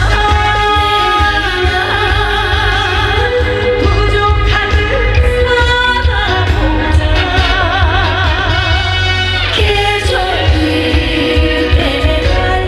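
A woman singing a Korean song with vibrato on held notes over a loud backing track with a steady bass beat.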